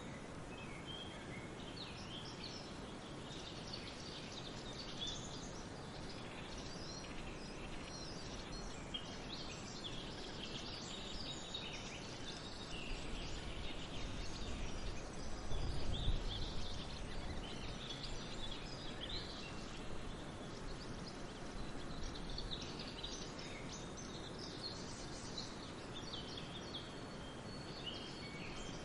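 Many birds chirping and singing, scattered short calls throughout, over a steady hiss of wind in the trees and distant falling water. A low rumble swells briefly about halfway through.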